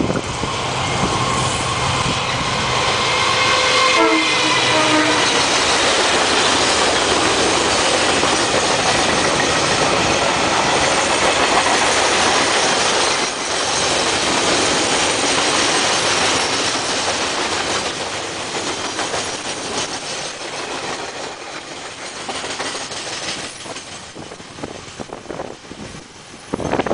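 A goods train passing close by: the locomotive's engine tones drop in pitch as it goes past about four seconds in, then a long string of wagons rumbles and clatters over the rails, slowly fading as the end of the train draws away.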